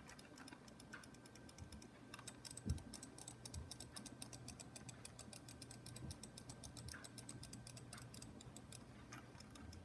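Faint, rapid clicking of a computer mouse or keyboard, several clicks a second, with a few soft low thumps, the loudest a little under 3 seconds in.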